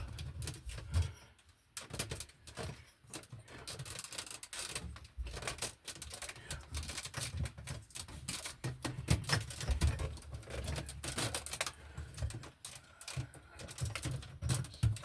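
Hand work on electrical wiring and box hardware: a steady run of light, irregular clicks and taps, with a few dull low knocks.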